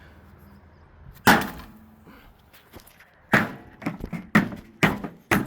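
Hard knocks: one sharp knock about a second in, then a quick run of five knocks roughly half a second apart near the end.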